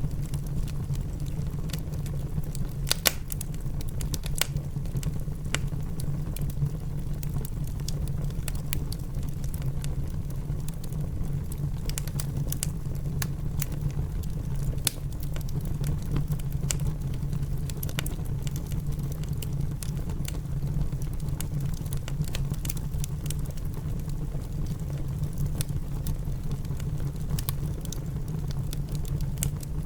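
Wood fire in a fireplace crackling, with irregular sharp pops, two louder ones about three and four and a half seconds in. Under it are a steady low rumble and a soft patter of rain.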